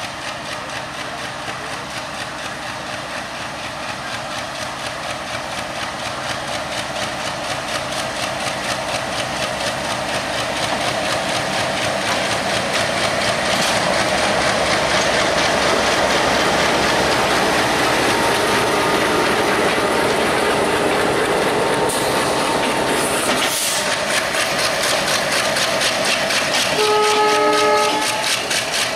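An Alco WDM3A diesel locomotive and its broad-gauge intercity coaches passing close by, with a fast, steady clatter of wheels over the rail that grows louder over the first half. A short train horn blast sounds near the end.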